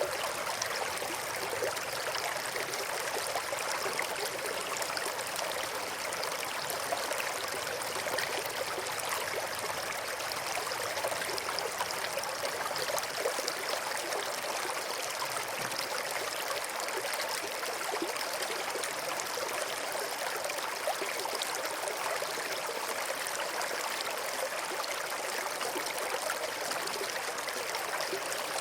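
River water flowing steadily over and between rocks: a continuous, even rushing with fine bubbling and splashing detail.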